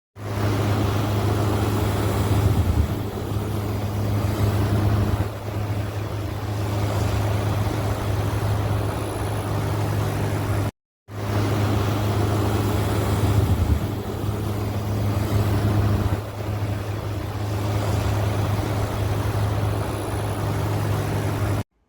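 Window air conditioner running: a steady low hum with an even rush of fan air over it.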